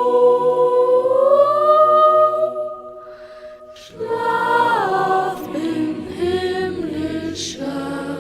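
Christmas carol singing in a choir-like sound with long held notes. The notes rise slightly about a second in, soften briefly about three seconds in, then a phrase steps downward in pitch.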